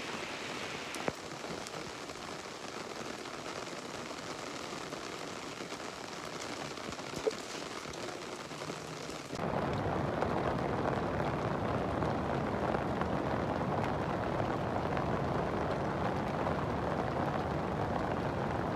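Heavy rain falling steadily. About halfway through, the sound abruptly becomes louder and fuller, with more low rumble in the downpour.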